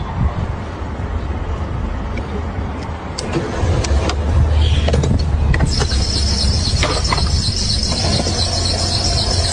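A car's engine runs with a steady low rumble, which grows louder a little under four seconds in. About six seconds in, a steady high-pitched whine joins it and keeps going.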